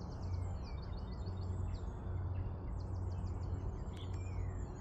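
Small birds singing: rapid trills of short, high chirps near the start and again about three seconds in, with scattered single chirps, over a steady low rumble.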